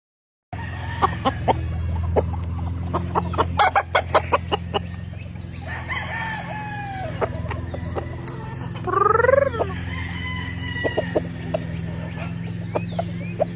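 Gamefowl rooster crowing once, loud, about two thirds of the way in, with short clucks and sharp clicks from the birds before it. A steady low hum runs underneath.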